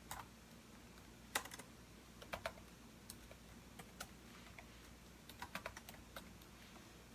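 Typing on a computer keyboard in sparse, irregular keystrokes with pauses between them, including one sharper keystroke about a second and a half in and a quick run of keys later on.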